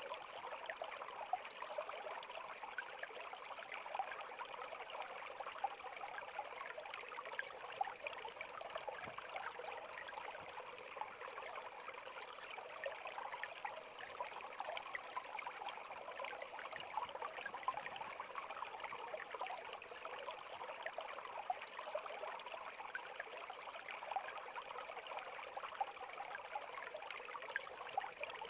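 River water flowing and babbling, a steady rush with many small splashes.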